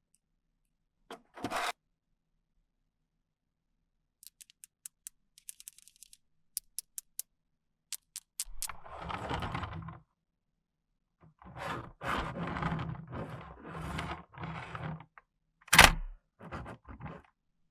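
Toys and packaging being handled: scraping, a run of sharp clicks and thunks, with one loud knock near the end.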